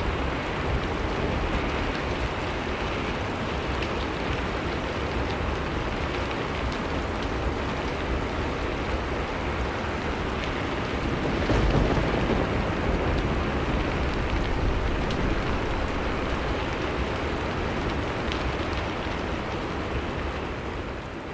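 Steady heavy rain over a low rumble, getting louder for a few seconds about halfway through.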